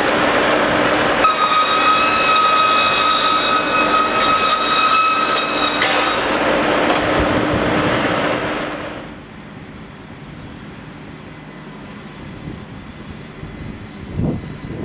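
Truck-mounted mobile sawmill running, with a high whine from its circular blade for a few seconds. About nine seconds in, the machine noise falls away, leaving a much quieter background.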